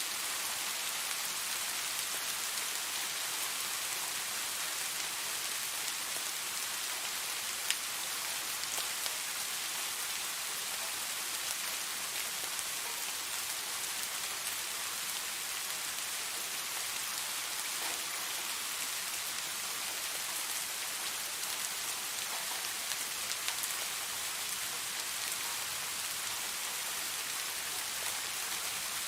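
Steady rain falling, an even hiss with scattered individual drops ticking; one sharper drop stands out about eight seconds in.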